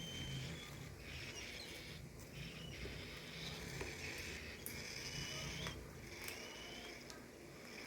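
Pet birds giving soft, high-pitched chirps and short peeps, some rising or falling a little, scattered through the whole stretch, with a few light clicks and a low steady hum underneath.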